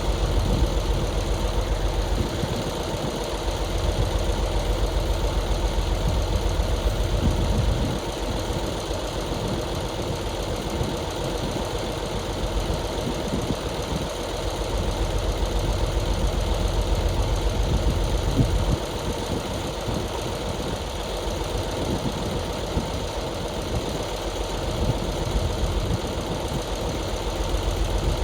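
Heavy diesel engine of earthmoving equipment running continuously, its low rumble rising and easing with the load, dropping noticeably about eight seconds in and again near nineteen seconds.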